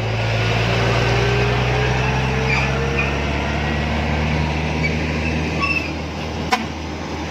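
Heavy truck's diesel engine running steadily under load, with a sharp click about six and a half seconds in.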